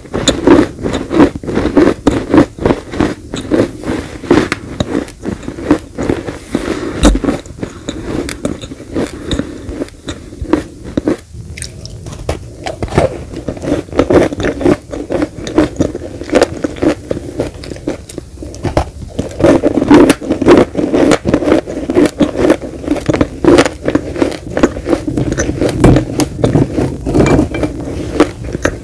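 Close-miked biting and chewing of crunchy baked clay cookies: dense, irregular crunches and grinding bites, one after another.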